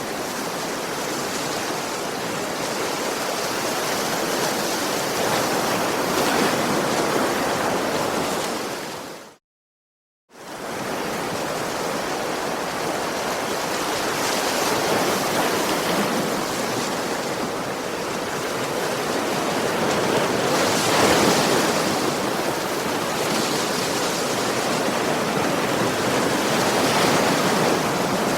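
Sea waves washing onto a beach: continuous surf that swells and eases. About nine seconds in it fades out to a second of silence, then fades back in.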